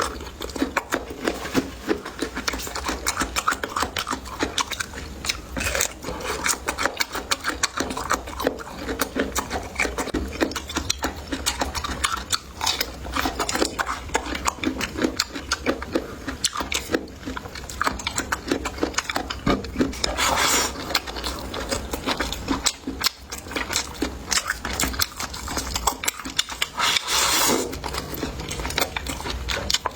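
Close-up eating sounds: steady chewing and biting with frequent small clicks of utensils against dishes. There are a couple of louder, noisier moments, one about two-thirds of the way through and one near the end.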